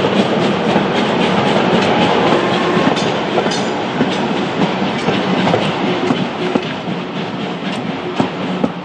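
A train rolling past, its wheels clattering over the rail joints in a run of clicks, getting quieter toward the end as it moves away.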